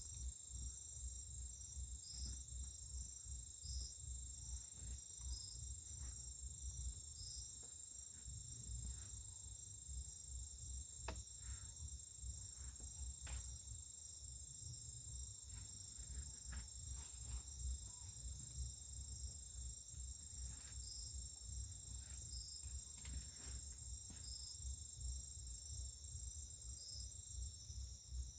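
Steady insect chorus, several high continuous trilling tones together, over a low rumble and a few faint clicks.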